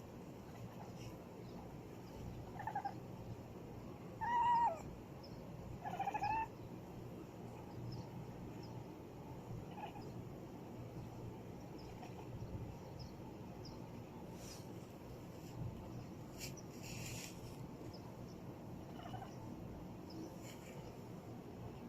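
A domestic cat meowing: three short calls, each bending up and down in pitch, in the first seven seconds, then only a few faint ones.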